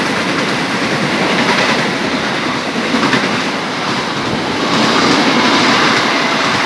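Passenger coaches of a train passing at speed right beside the platform: a loud, steady rush of wheels on the rails with occasional clacks, dropping away near the end.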